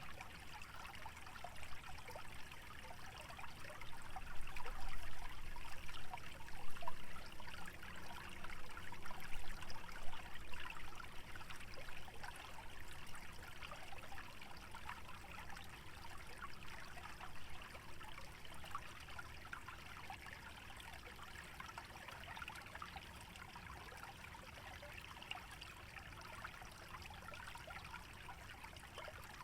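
Shallow stream trickling and babbling steadily over a low rumble. It swells for several seconds a few seconds in, then eases back to a steady trickle.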